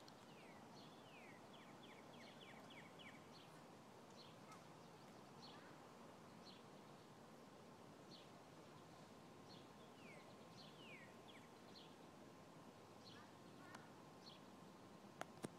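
Faint small-bird chirping: scattered short high chips and a few quick runs of falling notes, over a quiet outdoor hiss. Two sharp clicks sound just before the end.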